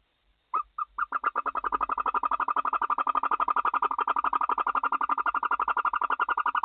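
Barn owl in the nest box calling: a few separate notes, then a fast, steady run of short repeated twittering notes, about ten a second.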